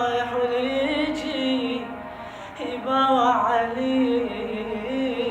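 A solo voice singing a song in Iraqi dialect, holding long notes with quick ornamented turns about three seconds in.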